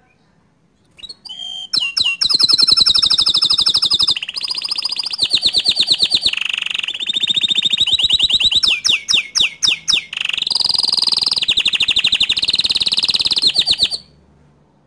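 Domestic canary singing a long song of rapid trills, switching from one trilled phrase to the next, with a short run of slower downward-sweeping notes about two thirds of the way through. The song stops a second before the end.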